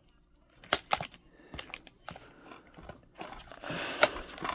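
Handling noises from unpacking: a few sharp clicks in the first two seconds, then rustling of packaging from about three seconds in, with another click near the end.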